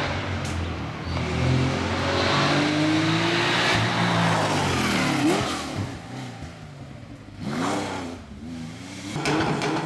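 Rally car engine driven hard on a stage, revving up through the gears, then rising and falling in pitch several times in the second half as it comes off and back on the throttle.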